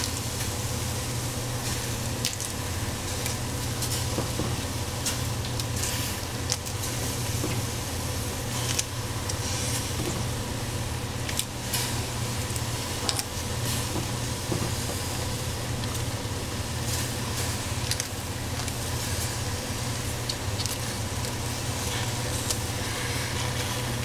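Vegetables sizzling in a hot pan of oil, a steady hiss with frequent small crackles, over a steady low hum.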